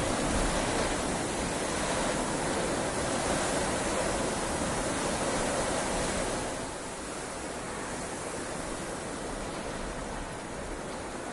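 Heavy rain falling, a steady even hiss that eases a little about two-thirds of the way through.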